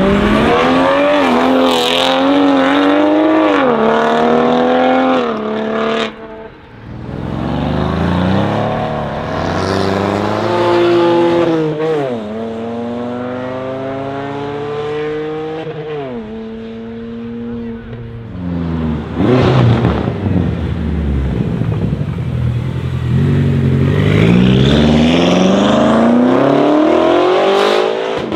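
BMW cars accelerating hard one after another, each engine note rising in pitch and dropping back at each upshift as it pulls away.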